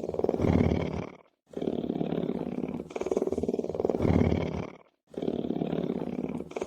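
Lion's rumbling purr: a low, rapidly pulsing rasp in repeated phrases. Each phrase swells, then breaks off sharply into a brief silence, twice.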